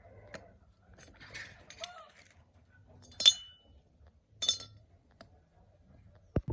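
Small metal engine parts or tools clinking as they are handled and set down. The loudest clink, about three seconds in, rings briefly; another follows a second later, and there is a short dull knock near the end.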